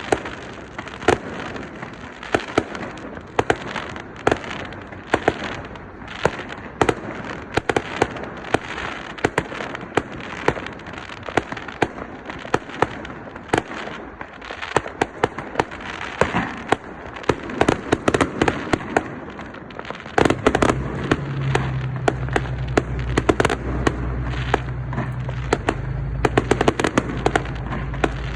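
Fireworks display: a dense, irregular barrage of sharp bangs and crackling bursts, several a second. From about twenty seconds in, a steady low rumble runs beneath the bangs.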